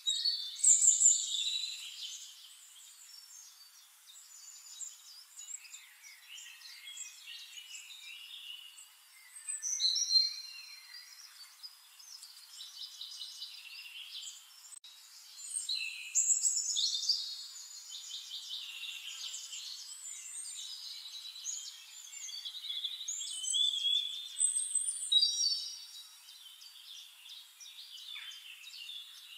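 Birds singing: bouts of high chirps and trills that come back every several seconds, louder about a second in, around ten seconds, around sixteen seconds and around twenty-four seconds.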